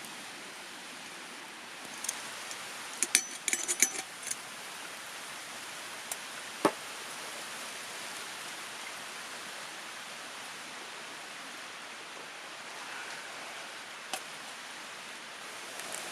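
Steady hiss of falling or running water. A cluster of sharp clicks and knocks about two to four seconds in, a single louder knock near seven seconds, and a faint click near the end.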